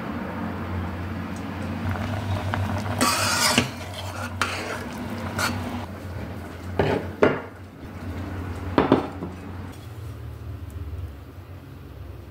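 Kitchenware clattering: utensils knocking and scraping against pots and dishes, with a burst of clatter about three seconds in and a few separate sharp knocks later, over a steady low hum.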